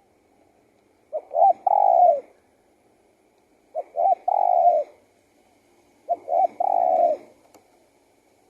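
Spotted dove cooing: three phrases about two and a half seconds apart, each two short notes followed by a longer, falling coo.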